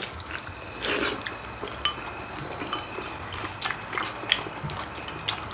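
People eating: chewing, with a brief slurp about a second in, and light clicks of chopsticks against bowls and a pot.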